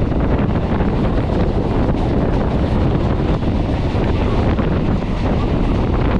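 Electric suburban EMU train running along the line, its steady rumble nearly buried under heavy wind buffeting the microphone.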